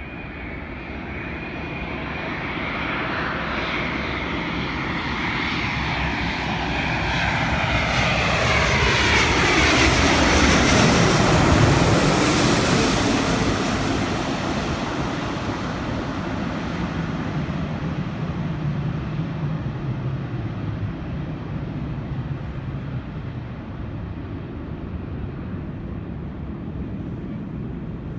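Delta jet airliner passing low overhead on approach to land, its engines building to a peak about eleven seconds in with a sweep falling in pitch, then fading as it moves away.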